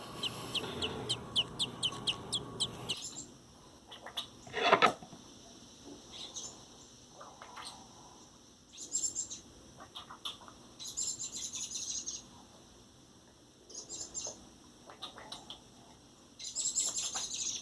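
Rescued robin nestling begging: a quick run of high chirps, about five a second, for the first three seconds, then short bursts of high chirping every couple of seconds. One louder sound cuts in about five seconds in.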